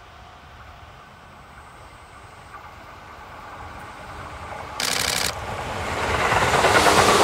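Tobu 350 series electric train approaching on the line, its running noise growing steadily louder until the cars pass close by near the end with a loud rumble and rail clatter. About five seconds in a short, half-second horn blast sounds.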